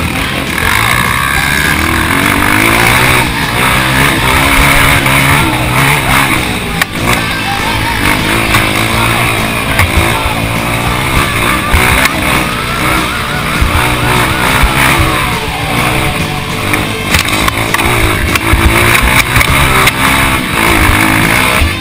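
Off-road dirt bike engine running close and loud under load, its pitch rising and falling over and over as the throttle opens and closes.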